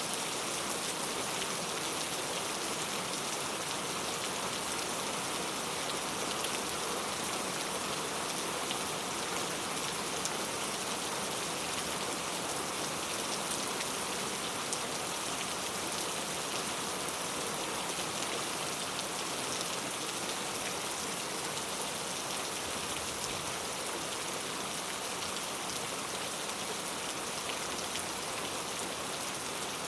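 Heavy rain falling steadily on hard surfaces, an even hiss with a dense patter of individual drops.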